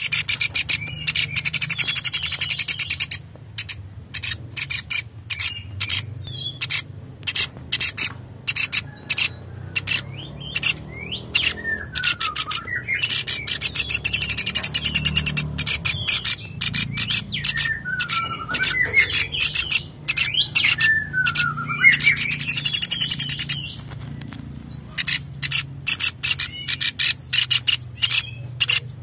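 Birds chirping in fast runs of short, high notes, broken in the middle by swooping whistled notes that dip and rise. A low steady hum runs underneath.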